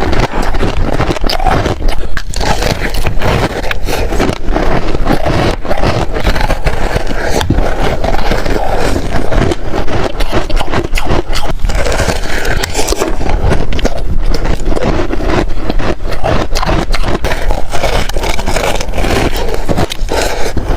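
Freezer frost being scraped and crunched close to the microphone: a loud, continuous dense crackling scrape.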